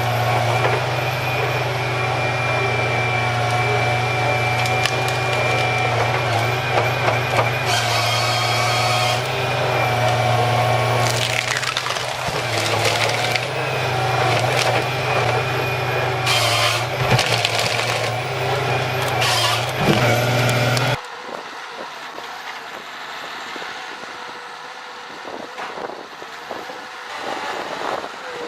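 Heavy tree-felling machine running steadily with a deep engine hum and a steady hydraulic-like whine, with several short bursts of wood cracking and splintering as the tree is cut. About two-thirds of the way through the sound drops suddenly to a quieter, distant machine running.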